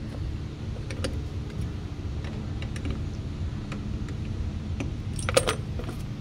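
Light metallic clinks and rattles of hand tools and battery hardware being handled, with a cluster of sharper clinks about five seconds in, over a steady low machine hum.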